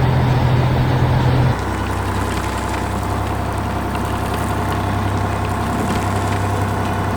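Heavy construction vehicle engine running steadily, dropping to a lower, quieter tone about a second and a half in and then idling on.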